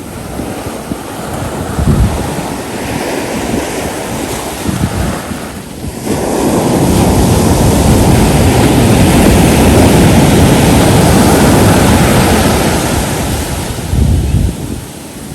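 Ocean surf breaking and washing up on a beach, with wind buffeting the microphone in low rumbling gusts. About six seconds in the wash of the waves swells louder and holds for several seconds before easing off.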